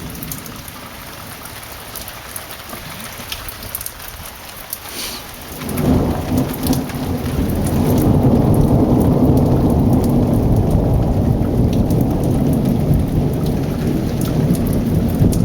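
Thunder and heavy rain. Rain patters steadily at first; about six seconds in, a loud, deep thunder rumble swells up over a couple of seconds and rolls on without letting up, heavy enough to shake the ground.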